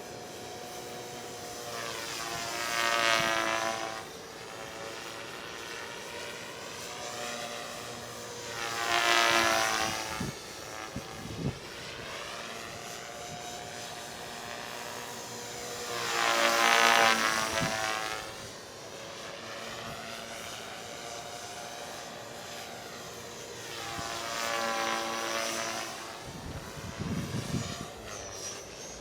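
Radio-controlled model airplane flying repeated passes, its engine and propeller note swelling and dropping in pitch as it goes by, four times, about every seven or eight seconds.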